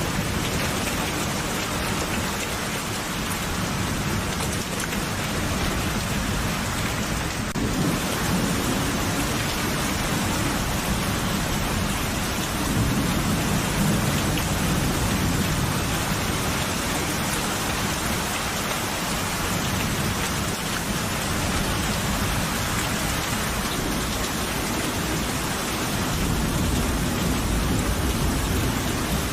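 Steady heavy rain falling on a surface, with low rolling thunder swelling and fading beneath it, most strongly about halfway through and again near the end.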